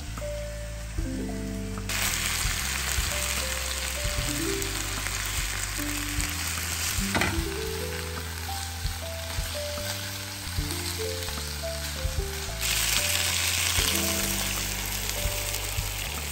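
Chicken pieces sizzling in a nonstick frying pan on a gas burner, turned with a silicone spatula. The sizzle grows louder about two seconds in, and there is a single sharp tap partway through. Soft background music plays a simple melody throughout.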